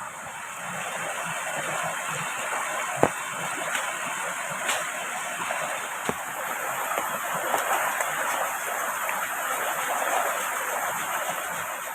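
Steady rushing water from heavy rain and a flowing river, with a few sharp clicks.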